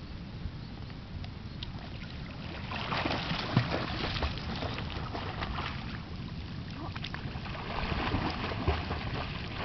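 Wind rumbling on the microphone, joined about three seconds in by a steady run of scattered crackles and knocks, like someone moving around and searching at the water's edge.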